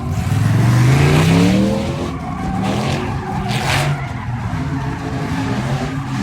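Truck engine revving up hard, its pitch climbing for about a second and a half, then running on under surges of tire squeal and skidding noise.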